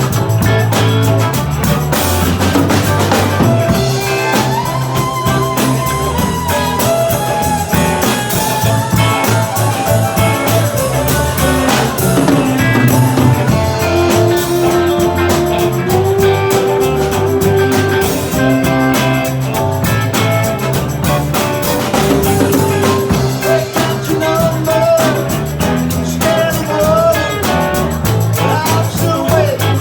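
Live rock band playing: guitar and bass over a steady drum-kit beat, with sustained melody lines on top.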